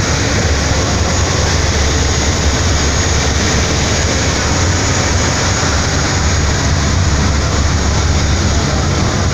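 Fast passenger ferry under way at cruising speed: its engines run in a steady, loud low drone under a constant rushing noise.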